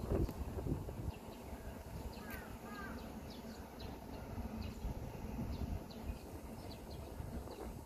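Small birds chirping: many short high chirps scattered through, with a few quick curling calls about two and a half seconds in, over a steady low rumble.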